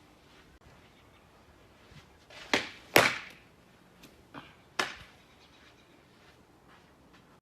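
A softball pitch smacking into a leather catcher's mitt about three seconds in, just after a shorter smack, with another sharp smack near five seconds.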